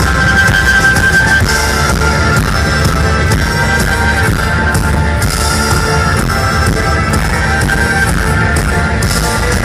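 Live rock band playing an instrumental passage: loud, steady electric guitars and drum kit with cymbals, no vocals.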